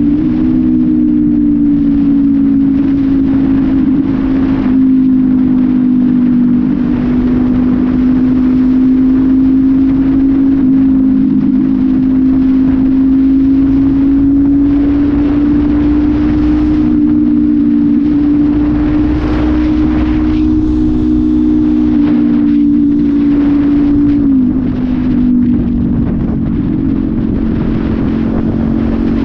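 Honda CB500F's 471 cc parallel-twin engine, running through an aftermarket sport exhaust with no air filter, cruising at a steady road speed under wind rush. The engine note holds fairly steady, wavering a little, and drops slightly in pitch near the end.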